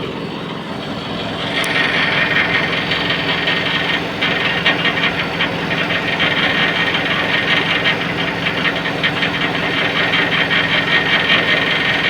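Air conditioner running: a steady hum from the compressor and fan. About a second and a half in, a louder hiss with a fast rattle joins it.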